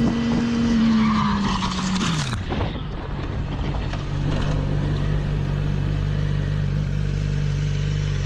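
A motor vehicle's engine with road noise. Its pitch falls over the first two and a half seconds, then it settles into a steady drone.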